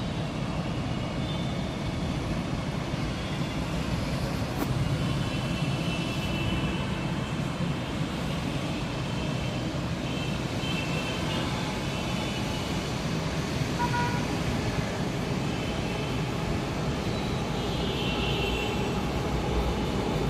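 Metro train running, a steady rumble with faint high-pitched squeals coming and going.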